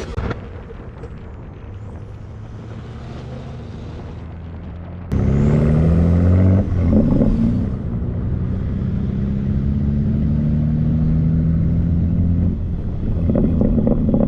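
Car engine running while driving: a low steady drone for about five seconds, then a sudden jump in loudness as the engine revs up with rising pitch, settling into a steady cruising note.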